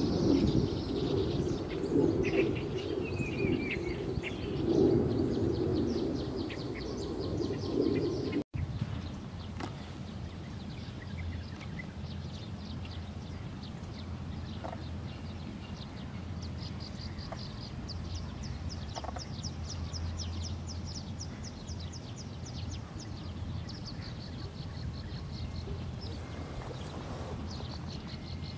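Outdoor ambience with small birds chirping and trilling. The sound drops out briefly about eight seconds in. After that the background is quieter, with a low steady hum and runs of rapid high trills.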